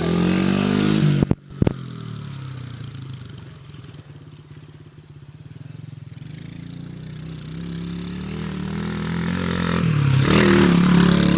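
Dirt bike engine running as the bike rides away and comes back. It is loud at first, fades to a distant hum, then grows steadily louder to its loudest near the end as it passes close. Two sharp clicks come about a second and a half in.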